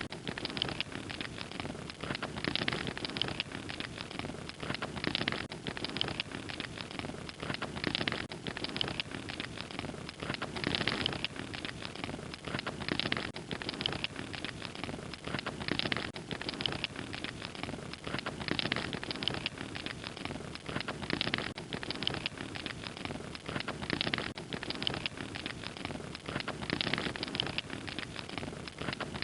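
Wood fire crackling: a continuous dense run of small pops and snaps with a soft hiss beneath.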